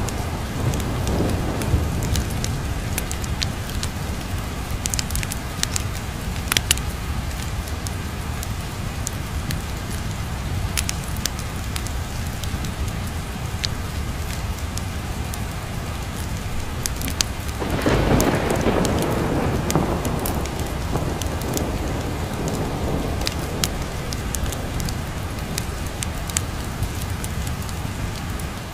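Steady rain with a low, continuous thunder rumble and scattered sharp crackles. A longer roll of thunder swells about two-thirds of the way through, then fades.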